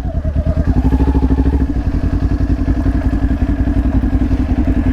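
Kawasaki Ninja 400's parallel-twin engine running steadily at low revs with an even throb, the bike held at a near standstill.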